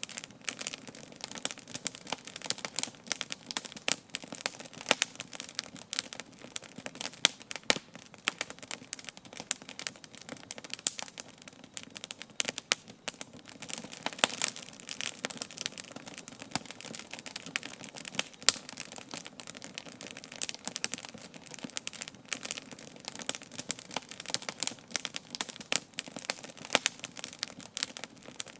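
Wood campfire crackling and popping steadily, with frequent irregular sharp snaps.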